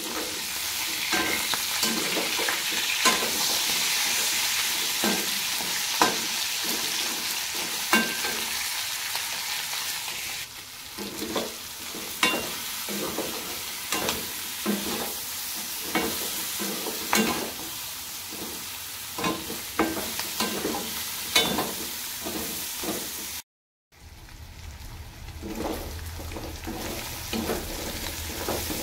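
Pork pieces sizzling as they fry in a wok-shaped metal pan, stirred with a spatula that scrapes and knocks against the pan every second or so. The sizzle is loudest in the first third, and the sound cuts out briefly about three-quarters of the way through.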